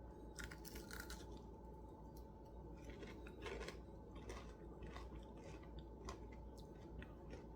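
A person chewing breaded fried oysters close to the microphone: faint, irregular crunches and small clicks of biting.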